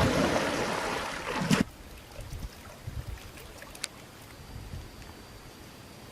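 Loud splashing, rushing water that stops abruptly about a second and a half in, followed by quiet outdoor background with a few faint clicks.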